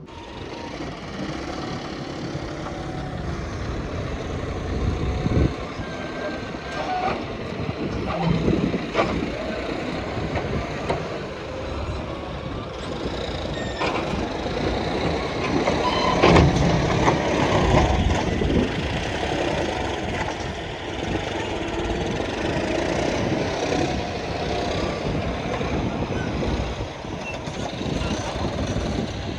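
Diesel engines of heavy machinery and trucks running under load, with several loud knocks and clanks.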